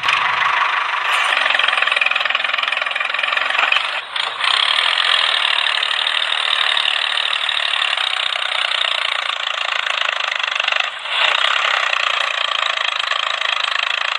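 Small electric motor of a homemade toy tractor running steadily, with a brief drop in level about four seconds in and another about eleven seconds in.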